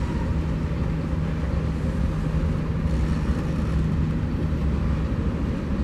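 Freight train cars (tank cars and covered hoppers) rolling past on the rails: a steady low rumble of wheels on track, with a low hum that stops about five seconds in.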